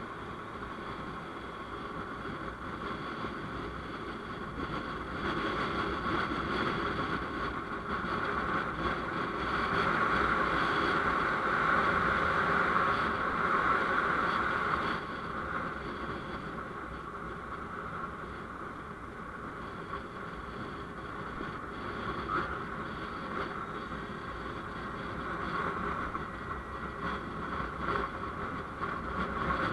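Continuous vehicle and road noise heard while riding, swelling louder about ten seconds in and easing again a few seconds later.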